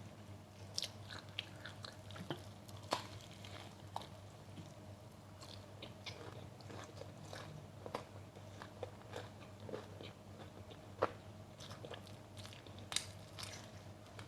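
Close-miked eating: a person biting and chewing crunchy food, with irregular crisp crunches at uneven intervals over a faint steady hum.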